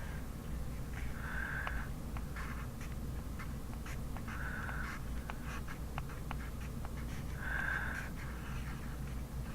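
Pencil writing on paper: short scratchy strokes about every three seconds, with light ticks of the pencil tip between them, over a low steady hum.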